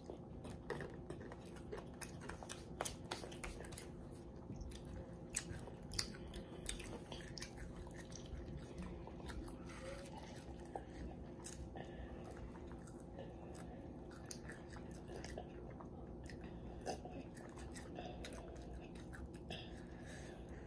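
Close-up chewing and eating sounds of children eating fries, with scattered small clicks and taps throughout, over a faint steady hum.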